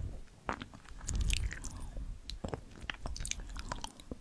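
Close-miked chewing and biting ASMR, with many short, crisp crackling clicks over a low rumble.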